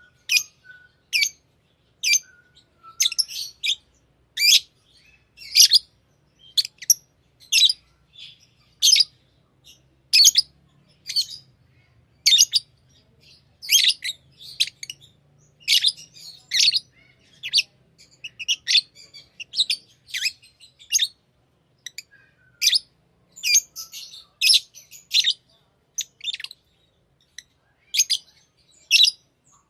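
Pet lovebirds chirping: short, sharp, high-pitched calls, roughly one or two a second and unevenly spaced.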